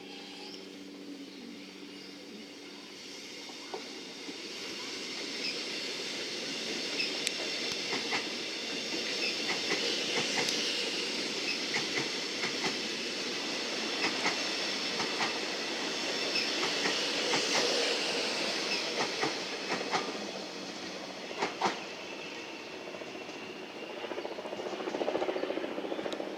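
Melbourne Metro electric suburban train passing through a station, its sound building to a peak and easing off, with irregular clicks and clunks from the wheels on the track and a high steady whine.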